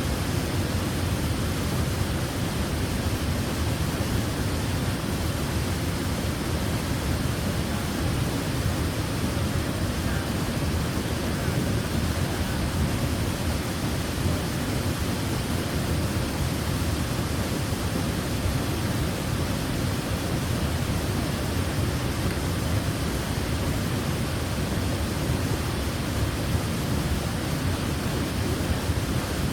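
Waterfall: water falling and splashing in a steady, even rush, heaviest in the low end.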